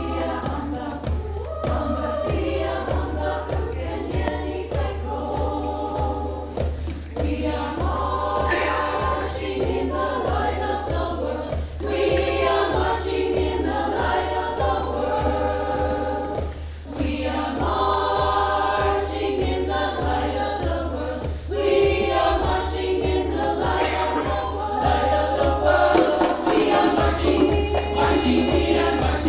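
Community choir singing in several parts, in phrases of a few seconds each, over a steady low drone.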